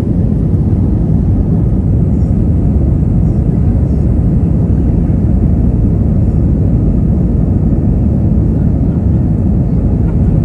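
Jet airliner heard from inside the cabin: a steady, loud, low rumble of engines and rushing air during takeoff or climb.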